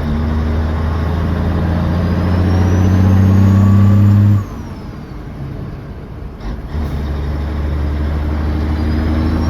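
Foden lorry's diesel engine through a straight-through stainless exhaust, pulling hard with its pitch climbing, then dropping off abruptly about four seconds in as the throttle is lifted for a gear change. It comes back on load a couple of seconds later.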